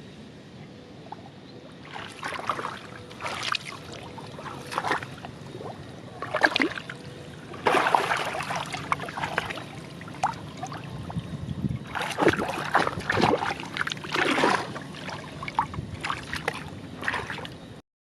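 Shallow water splashing and sloshing in irregular bursts as hands work through it, the sound cutting off suddenly near the end.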